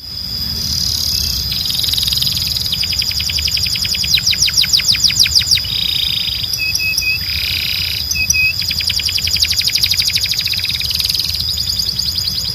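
Timbrado song canary singing continuously in phrases of rapid repeated notes, about ten a second, broken by a few short held notes, with a steady high whistle-like tone running underneath.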